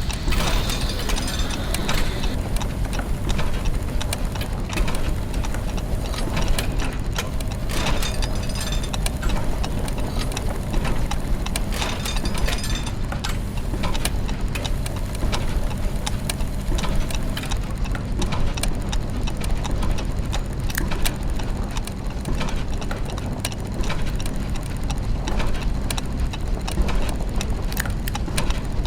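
Clockwork gears and ratchets ticking and clicking densely and irregularly over a steady low mechanical hum.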